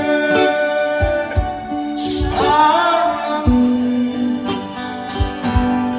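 A singer sings a Korean ballad live, with instrumental backing and a regular low beat; a sung 'sarang' (love) comes about halfway through.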